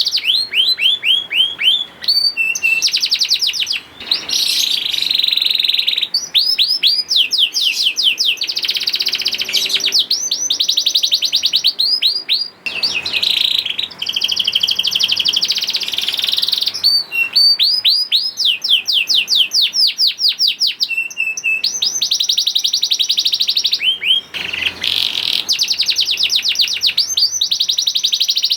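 Young domestic canary singing a long, unbroken song: runs of rapidly repeated sweeping whistled notes that switch to a new trill every second or two, with a few brief pauses.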